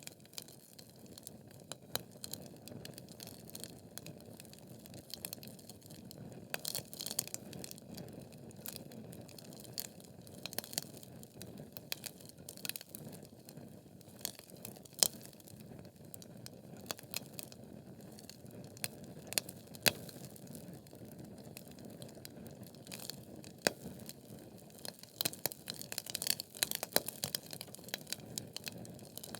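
Wood fire burning in a fireplace: logs crackling and popping with sharp irregular snaps over a low steady rush of flame, the pops coming thicker near the end.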